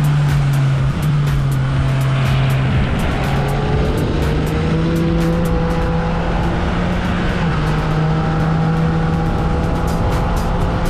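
Yamaha XSR900's three-cylinder engine, heard onboard while riding, running at a steady pitch. The pitch drops about a second in and climbs back near three seconds, then holds steady with a smaller dip later.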